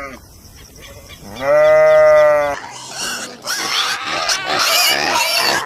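A goat gives one long, steady bleat of about a second. Then, after a cut, come harsh, noisy animal squeals.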